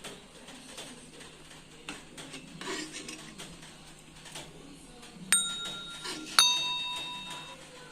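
Two sharp metallic clinks about a second apart, each ringing on for about a second: a metal serving utensil striking a steel cooking pot while biryani layers are spooned in. Fainter scraping and handling of the pot comes before them.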